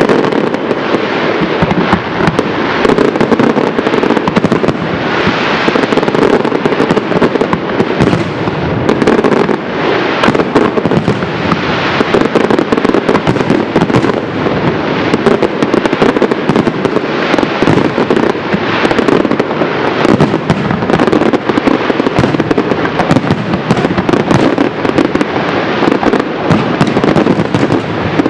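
Fireworks display: a dense, continuous barrage of aerial shell bursts and crackling, loud throughout with no pauses.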